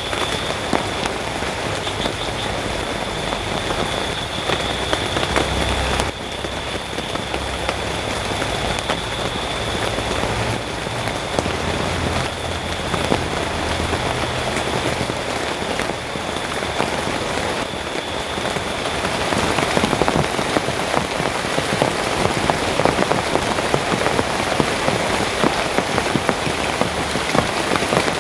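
Heavy rain falling steadily, with many individual drops striking close by. A thin steady high tone sits under the rain in the first half and then fades out. The rain grows a little louder about two-thirds of the way through.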